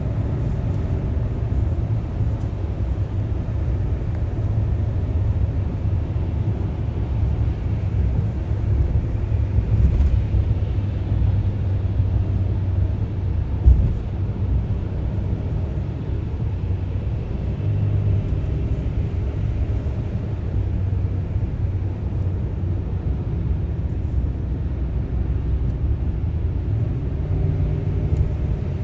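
A car driving, a steady low road and engine rumble, with one brief bump about fourteen seconds in.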